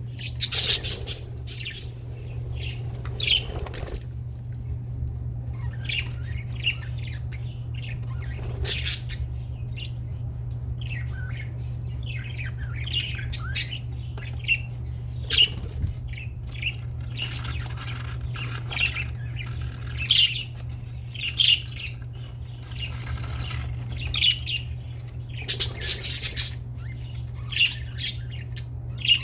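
Budgerigars squawking and chirping in short calls on and off, over a steady low hum.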